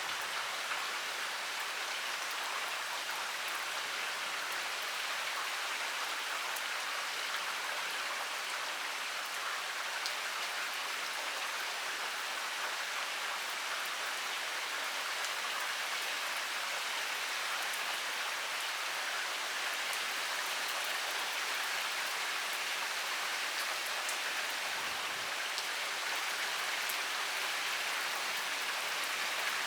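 Heavy rain pouring steadily, an even hiss of rainfall with many fine individual drops ticking on surfaces.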